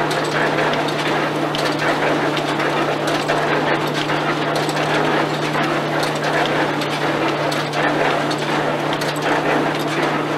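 Belt-driven 1954 Allan threshing mill working with its baler, giving a steady hum under a dense rattle and clatter of drum, shakers and moving parts.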